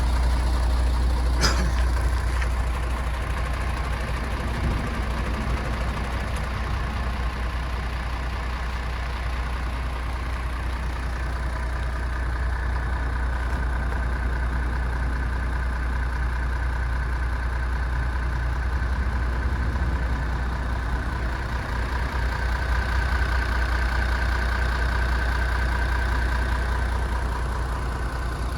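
MAN TGX 26.470 tractor unit's 470 hp six-cylinder diesel idling steadily with a low, even rumble. A single sharp click comes about a second and a half in.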